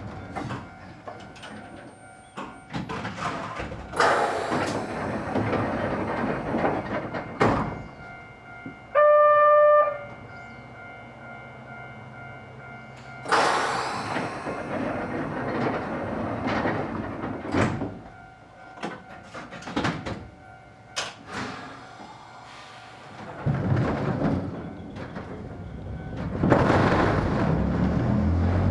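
Narrow-gauge train at a station stop: irregular knocks, rattles and rushing noise, with a loud steady buzzer-like tone lasting about a second some nine seconds in.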